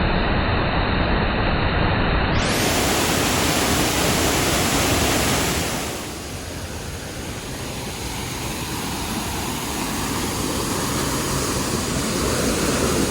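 Waterfall running, a steady loud rush of falling water. The level drops about six seconds in and then slowly builds again.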